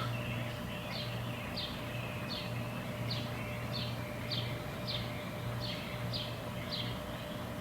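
A bird repeating a short, high, falling note about one and a half times a second, with a steady low hum underneath.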